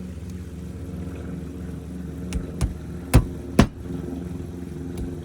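An engine running steadily with a low, slightly pulsing hum, and four sharp knocks about two to four seconds in, the last two the loudest.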